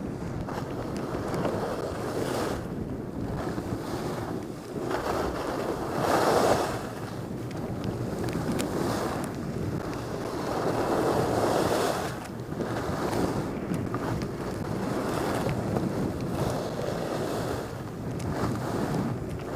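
Wind rushing over the microphone during a ski run, with the hiss of skis on snow swelling and fading through the turns.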